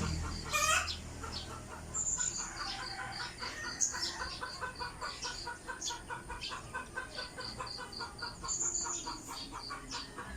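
Birds calling in a fast run of short, repeated notes, several a second, with a sharp click about half a second in.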